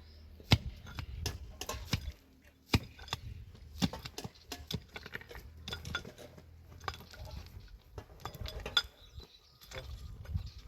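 Irregular light clinks and knocks of hard objects being handled, several sharp strikes a second at times, over a low background rumble.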